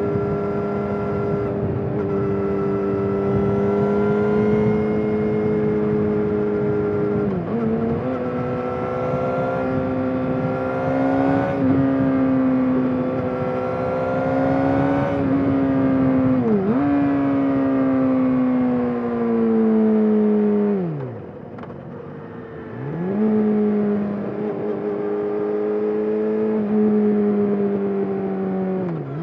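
Yamaha YZF R6's 599 cc inline-four running through an SC-Project exhaust under way, its note rising and falling with the throttle. Twice the note dips briefly and picks up again as the bike shifts gear. About two-thirds of the way through, the revs drop sharply and the engine goes quieter for a couple of seconds before it pulls again.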